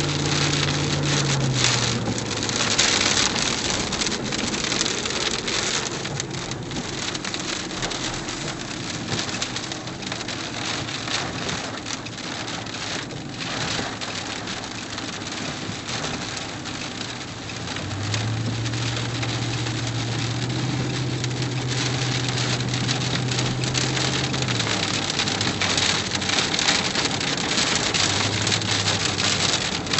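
Rain falling steadily, a dense hiss throughout. A steady low hum joins it briefly at the start and again for several seconds about two-thirds of the way through.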